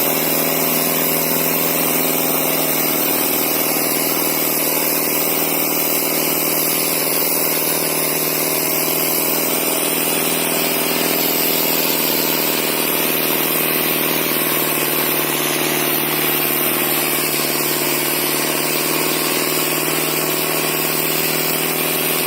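Sonalika DI 750 tractor's diesel engine running steadily at an even speed.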